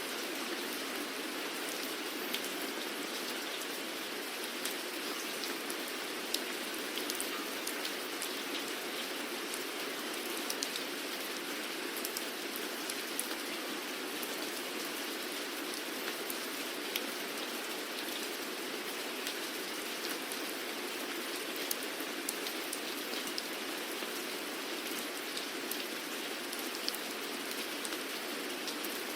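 Steady rain falling, an even hiss with many sharp individual drop ticks scattered throughout.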